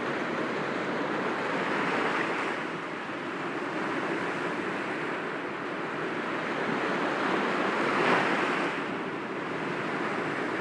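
Sea waves breaking gently against rocks, a continuous wash of surf that swells twice, most strongly about eight seconds in.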